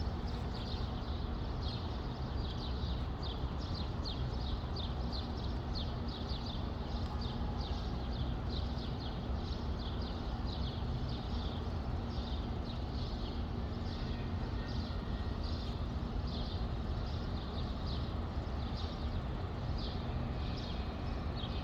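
Birds chirping in a fast run of short, high notes, two or three a second, over a steady low rumble.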